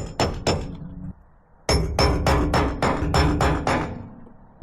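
A hammer striking metal in fast, even runs of about four blows a second, each blow with a slight metallic ring. There is a short pause about a second in, then a longer run that fades off near the end.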